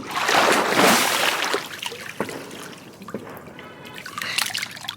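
Hot tub water splashing and sloshing: a sudden loud rush for about the first second and a half, then fading into smaller splashes and drips.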